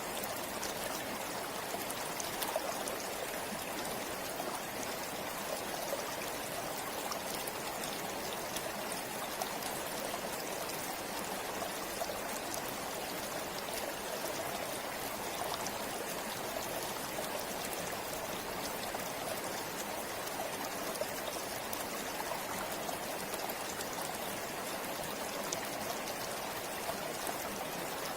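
Forest river or stream flowing steadily over stones, a continuous rushing with fine trickling splashes.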